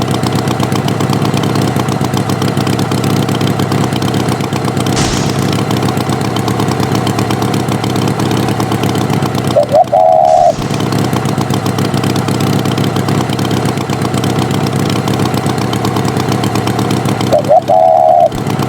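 Tractor engine sound effect running steadily at idle. A short, warbling higher tone of about a second sounds twice over it, near the middle and near the end.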